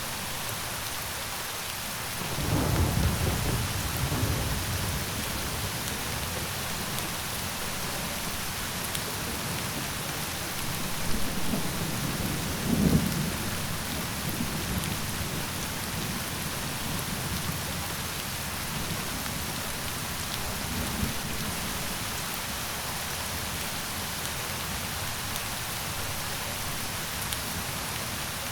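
Steady rain falling, with low rolls of thunder: one a couple of seconds in, a stronger one about halfway through, and a fainter one later.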